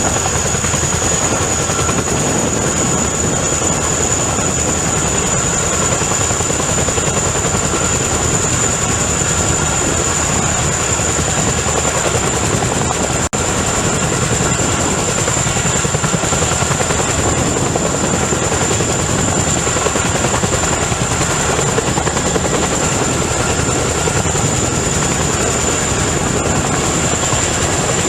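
Chinook tandem-rotor helicopter running close by: a steady rapid rotor beat with a high turbine whine over it. The sound drops out for an instant about halfway through.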